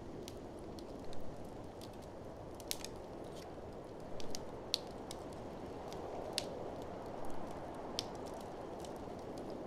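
Wood fire crackling, with irregular sharp pops over a steady low rushing noise.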